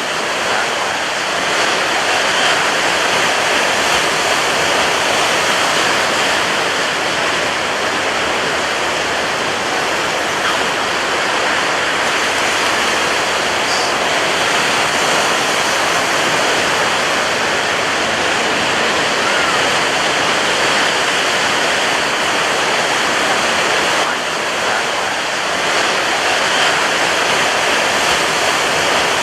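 Rough ocean surf, waves breaking on a beach in a steady, continuous rush of noise, with a brief dip in level about 24 seconds in.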